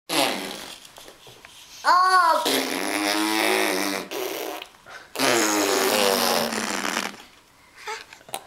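A baby blowing long, buzzing raspberries with his lips, twice, with a short squeal that rises and falls just before the first one.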